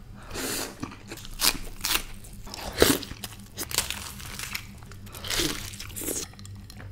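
Close-miked eating sounds: crunching bites and wet chewing of deep-fried puri and samosa, in irregular bursts, the loudest about three seconds in.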